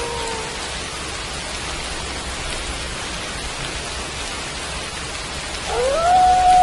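Steady rain falling. At the start the end of a wolf howl fades out, falling in pitch. Near the end another wolf howl begins, rising and then holding one note.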